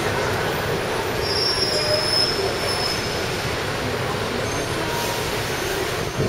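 Taipei Metro Tamsui line train running at speed: a steady rumble of wheels on rail, with a thin high wheel squeal rising above it for about a second and a half, starting about a second in.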